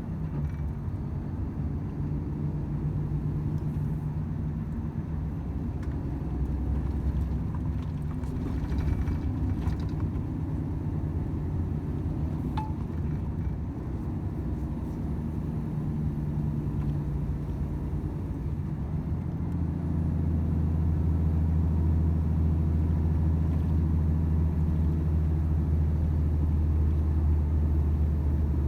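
Volvo FH 500 truck driving: the steady low drone of its 13-litre six-cylinder diesel engine mixed with road noise. The engine grows louder and deeper about twenty seconds in.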